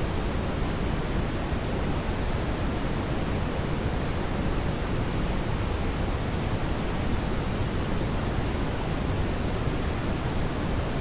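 Steady brown noise: an even, deep rushing hiss, strongest in the low end and without any change.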